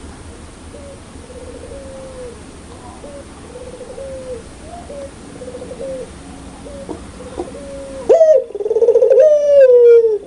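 Puter pelung (Barbary dove) cooing: a run of softer, evenly repeated coos, then about eight seconds in a much louder, close call, a short note followed by one long coo that falls in pitch.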